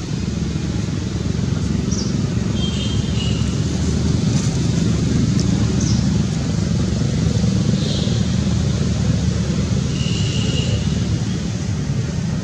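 Steady low outdoor rumble, with a few brief high-pitched chirps or squeaks scattered through it.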